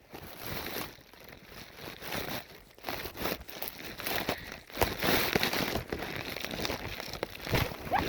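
Dry hay rustling and crunching as it is moved about, with scattered crackles, loudest about five seconds in.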